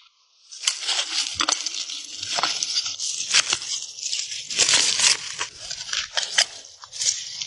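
Dry vegetation rustling and crackling, with many sharp snaps and crunches.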